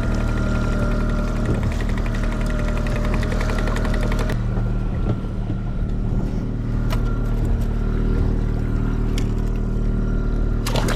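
Boat engine running steadily at trolling speed. A higher whine with a fast ticking over it plays for about the first four seconds and cuts off suddenly.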